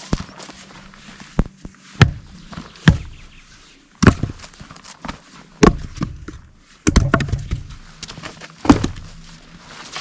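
Irregular footsteps and knocks of wood being handled, a dozen or so sharp thuds at uneven intervals, the kind made while gathering firewood.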